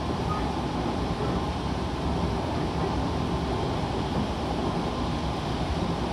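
Odakyu 1000 series electric train running at speed, heard from inside the passenger car: a steady rumble of wheels on rail with a hiss of air noise. It is passing through a station without stopping.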